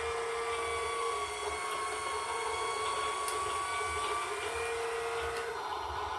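A small motor running with a steady whine, which stops about five and a half seconds in.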